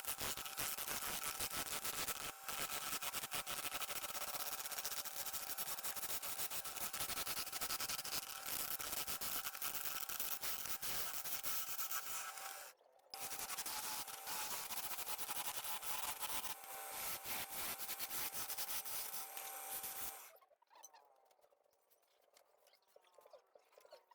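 Wood lathe running with a tool cutting the spinning wood: a dense, rough scraping hiss over a steady motor hum. It breaks off briefly about thirteen seconds in and stops about twenty seconds in.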